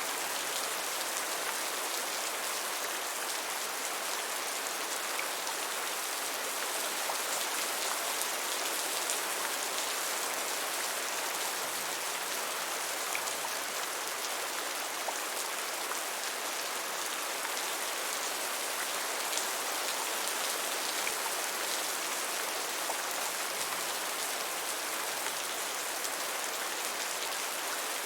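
Steady gentle rain: an even hiss of many small drops pattering, unchanging throughout, with no thunder.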